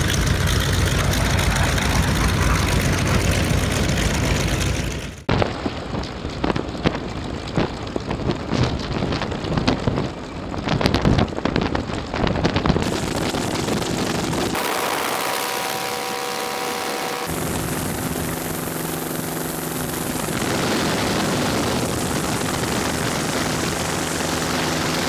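Aircraft engine noise in several short segments that change abruptly. A steady low engine drone gives way about five seconds in to a crackling, uneven stretch, and in the second half come steadier engine sounds with held tones.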